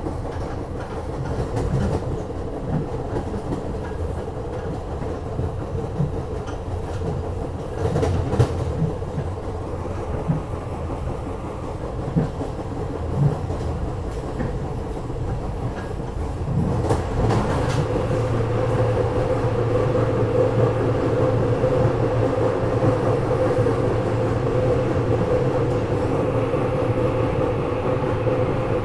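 SEPTA regional rail car running along the line, heard from inside the car: a steady rumble with occasional clicks from the wheels and track. About seventeen seconds in the sound grows louder and a steady hum sets in.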